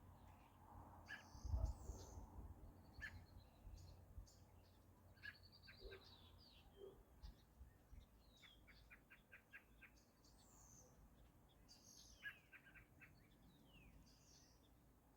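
Several wild birds chirping and calling faintly, with short sweeping notes and two quick trills of rapid repeated notes, about nine and twelve seconds in. A low rumble sounds near the start.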